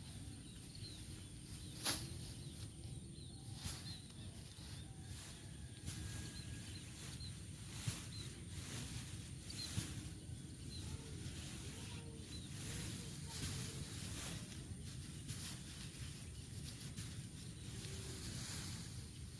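Outdoor field ambience: a low steady rumble, with faint short high chirps recurring every second or two and a few sharp clicks.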